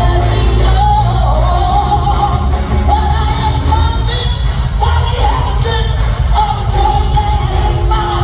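Gospel choir singing a melodic line together over a band with heavy bass and a steady drum beat.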